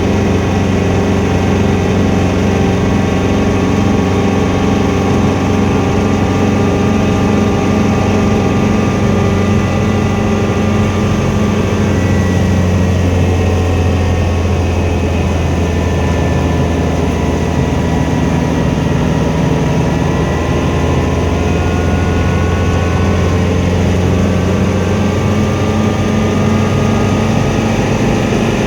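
Helicopter engine and rotor running, a loud steady drone whose tone shifts a little partway through.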